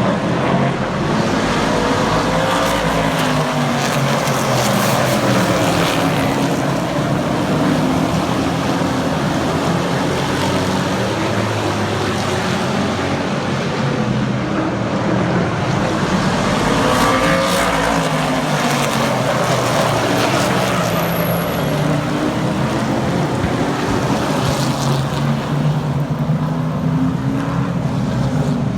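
A field of super trucks racing on a short oval track, several engines at once, their pitch rising and falling in repeated waves as the pack goes through the turns and past.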